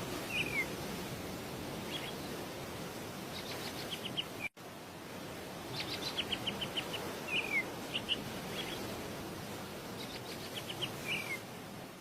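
A bird calling over steady outdoor background noise: short downward-slurred chirps and quick runs of sharp ticking notes, repeated every second or two. The sound cuts out briefly about four and a half seconds in.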